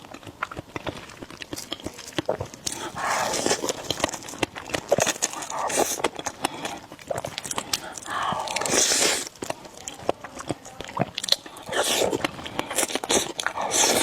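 A person eating noodles close to the microphone: chewing with many small wet mouth clicks, and three longer, louder swells about three, eight and twelve seconds in.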